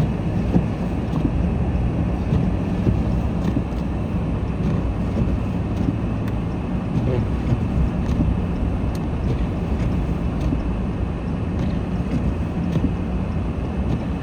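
Car being driven: steady low engine hum and road rumble heard from inside the cabin, with a few faint clicks.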